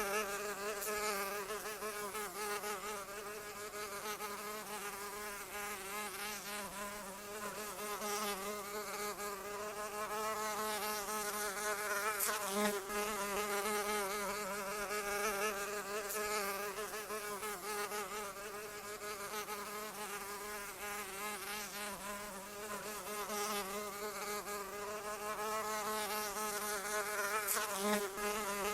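Buzzing of a flying insect's wings, continuous, with the pitch wavering slightly up and down as it flies.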